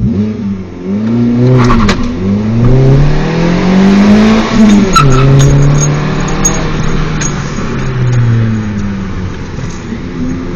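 2012 Fiat 500 four-cylinder with a straight-through rear muffler eliminator (power pipe), accelerating hard. The exhaust note climbs steadily in first gear, drops sharply at the shift into second about five seconds in, then falls away slowly as the throttle eases.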